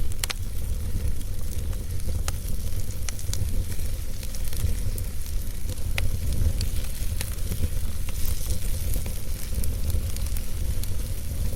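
Wood fire burning in a fireplace: continuous crackling with scattered sharp pops, the clearest near the start, about two seconds in and about six seconds in, over a steady low rumble of the flames.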